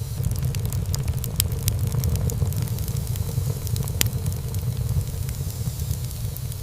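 Wood fire burning in a fireplace: a steady low rumble of flames under a run of small crackles and pops, with one sharper pop about four seconds in.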